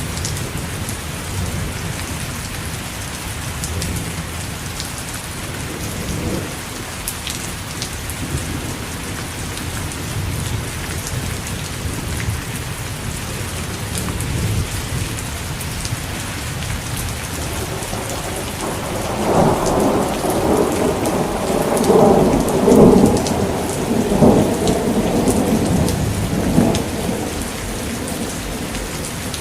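Steady rain falling, with a long rumble of thunder that swells up about two-thirds of the way through and rolls on for several seconds before fading back under the rain.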